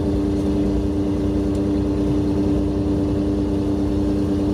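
Yacht's engine running steadily at low speed under way, one of its two engines running: a constant drone with a strong steady tone.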